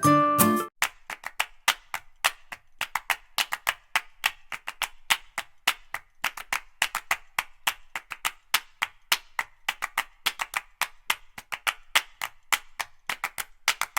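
A long run of sharp, dry clicks or taps, several a second at an uneven pace. The last notes of a tune fade out in the first second.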